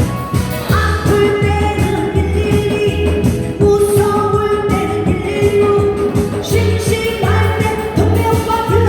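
A singer performing a Korean pop song live over a backing track with a steady beat, holding long notes.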